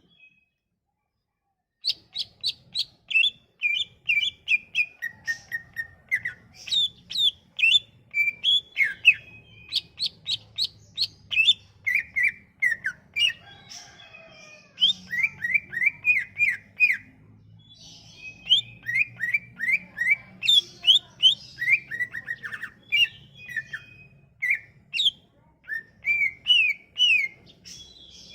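Cucak ijo (green leafbird) singing in full song: fast runs of short, down-slurred chirps and whistles, repeated in quick series, after a moment of silence at the start.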